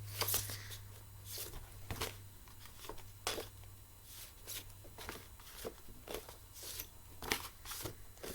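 Faint, irregular rustles and taps of paper phonics cards being handled and hidden.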